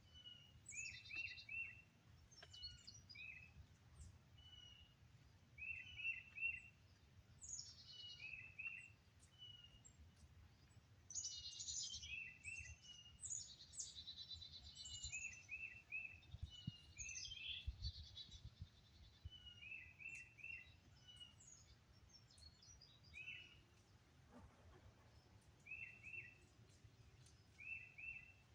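Wild songbirds singing. One bird repeats short clusters of two or three quick downslurred notes every couple of seconds, and another adds higher buzzy trills that are busiest about halfway through.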